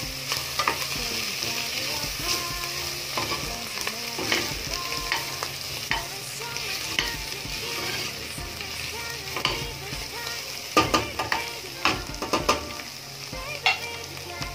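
Diced bacon and sliced mushrooms sizzling in a stainless steel pot as they are stirred, the utensil scraping and clicking against the pot. A cluster of louder knocks comes about eleven to twelve seconds in.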